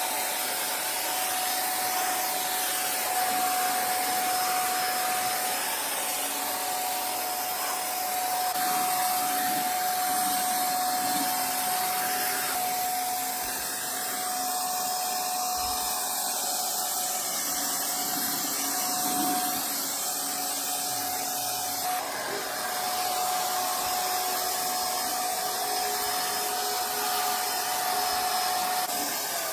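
A small motor running steadily with a rushing air noise and a steady whine, with a brief break about 22 seconds in.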